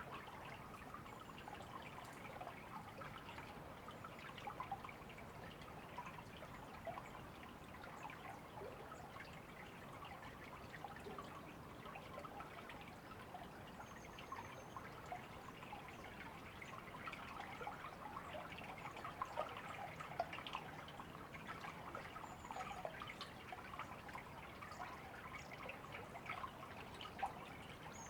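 A river running steadily with a babbling trickle, and a few brief high bird chirps, one about halfway through and a couple near the end.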